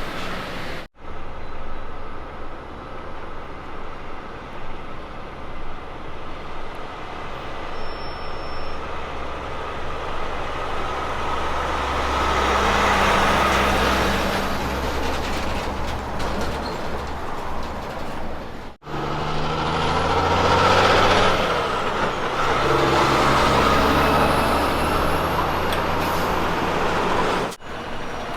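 Kenworth K200 road trains driving past, the diesel engine running and tyre noise swelling as each truck comes near. The sound breaks off sharply twice where one pass cuts to the next.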